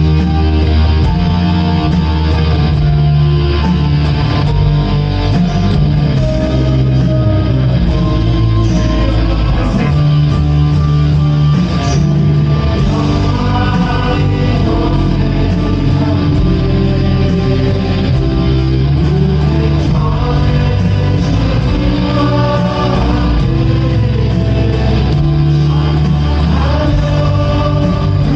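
Live contemporary worship band playing a praise song, with electric guitar, bass and drums, and singing over it.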